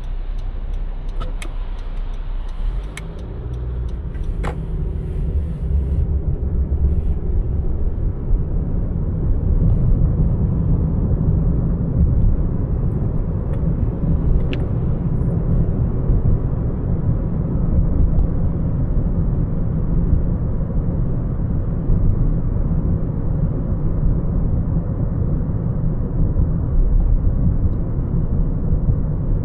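Car driving along a city road: a steady low rumble of engine and tyres, with a few sharp clicks in the first few seconds.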